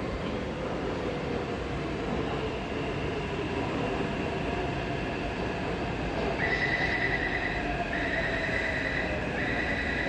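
Taipei Metro C381 train running with a steady rumble and a faint, slowly gliding motor whine. From about six seconds in, a high pulsing tone sounds three times, each burst about a second long.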